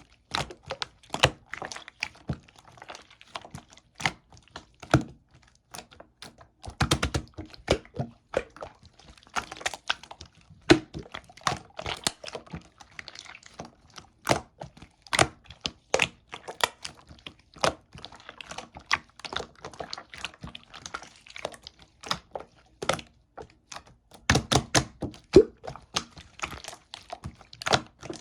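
Purple slime being squished and pressed by hand, making irregular sharp pops and clicks, with denser runs of crackling about a quarter of the way in and near the end.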